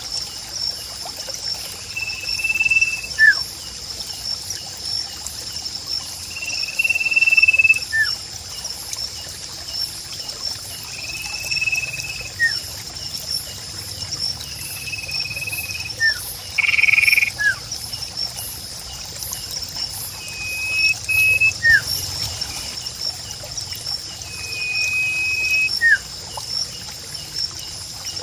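Sirpu bird calling over and over: a held whistled note followed by a short falling note, repeated about every four to five seconds. Behind it runs a steady high-pitched, pulsing animal chorus.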